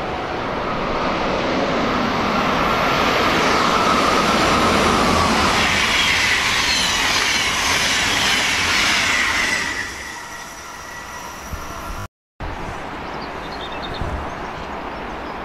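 Deutsche Bahn long-distance passenger train passing through the station at speed. Its wheel and rolling noise builds over several seconds, with high squealing wheel tones, then drops away about ten seconds in. A quieter steady background follows.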